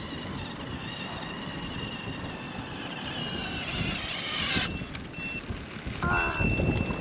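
Stacyc electric balance bike's motor whining, rising in pitch and then cutting off suddenly, with wind buffeting the microphone.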